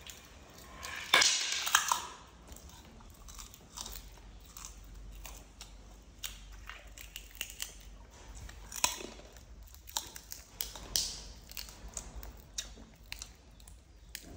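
Baby macaques chewing crispy ring-shaped snacks: a run of short, sharp crunches, the loudest about a second in.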